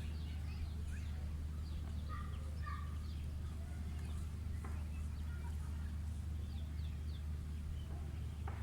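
Birds calling with many short, high, downward-sliding chirps, scattered irregularly, over a steady low hum.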